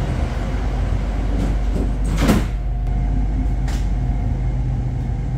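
A train running, heard from on board: a steady low rumble of the car on the rails, with a sharp knock about two seconds in and a lighter one a second and a half later.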